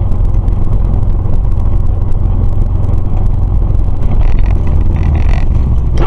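Motor vehicle on the move, a loud, steady low rumble of engine and road noise picked up by a dashcam.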